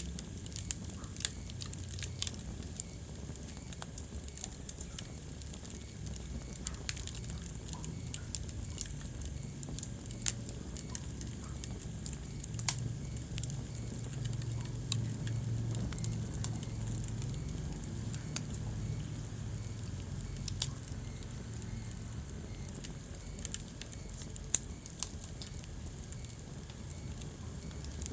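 Wood fire crackling in a fireplace: frequent sharp pops and snaps of burning logs over the low, steady rumble of the flames, with a few louder pops scattered through.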